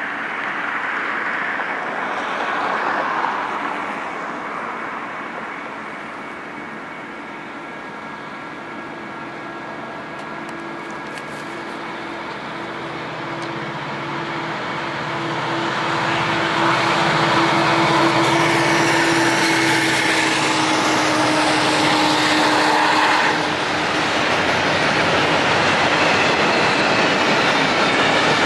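Union Pacific double-stack intermodal freight train behind two diesel locomotives, approaching and growing louder. A steady engine tone drops in pitch as the locomotives pass, and the rumble of the stack cars running by follows.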